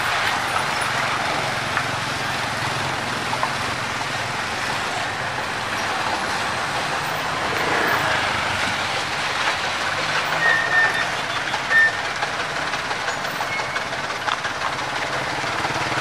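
Heavy trucks on a rough, potholed road: a steady mix of engine and road noise with scattered knocks and rattles. Two brief high tones sound a little past the middle.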